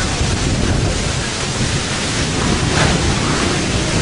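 Strong storm wind rushing steadily and buffeting the microphone.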